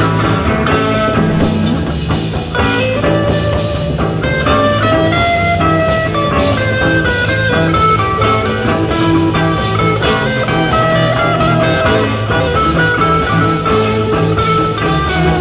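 Live psychedelic rock band playing an instrumental jam: electric guitar lines over a steady drum kit beat.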